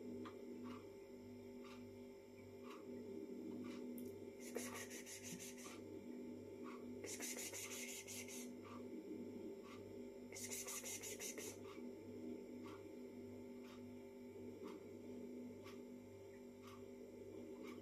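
Three bouts of scratching, each about a second long, from something under a kitchen cabinet, over a steady low hum and faint regular ticking.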